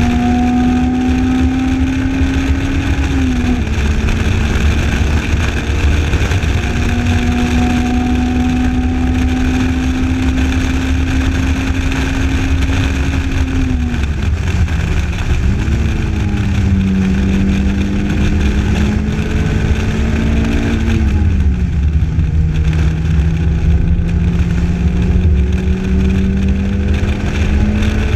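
A Lotus Elise's four-cylinder engine pulling hard, heard from inside the open cockpit. Its pitch climbs slowly and drops sharply at several gear shifts, and dips and recovers about halfway through. Heavy wind rumble runs underneath.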